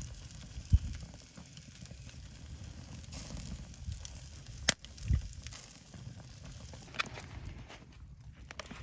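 Wood campfire crackling, with a few sharp pops and a low rumble underneath.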